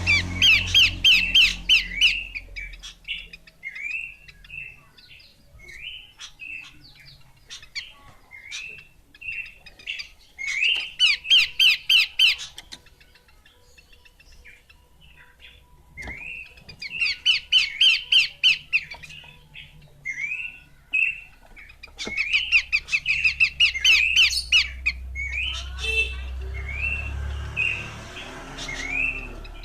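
Horsfield's babbler (pelanduk semak) singing: four loud bursts of rapid repeated notes, each lasting about two seconds, with single short notes scattered between them.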